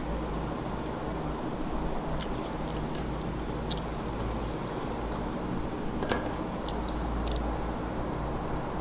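Close-miked chewing and wet mouth sounds of eating rice, dal and mushroom curry by hand. A few sharp clicks are scattered through it, the loudest about six seconds in, over a steady low hum.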